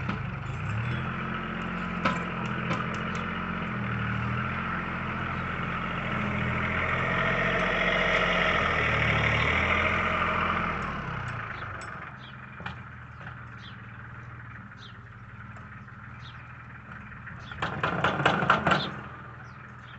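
Tractor engine running while loading a manure spreader. Its pitch rises and falls as the load on it changes, and it is loudest in the middle and eases to a quieter run after about twelve seconds. There is a brief louder burst near the end.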